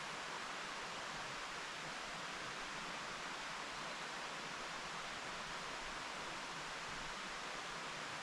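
Mountain stream running over rocks: a steady, even rushing of water.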